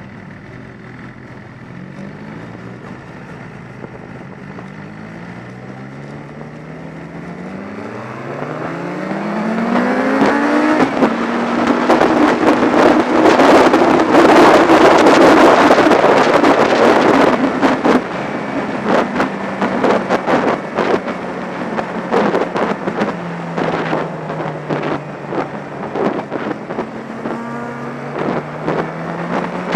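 Inline-four sport motorcycle engine accelerating hard, its pitch climbing in repeated sweeps through several upshifts. Heavy wind buffeting on the action camera's microphone then takes over at speed, with the engine note holding steady, dropping a little and rising again near the end.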